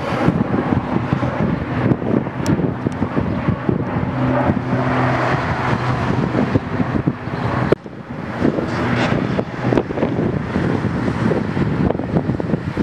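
Air Tractor AT-802 turboprop aircraft running, a steady propeller-and-turbine drone with a low hum, heavily buffeted by wind on the microphone. The level drops sharply for a moment a little past halfway, then comes back.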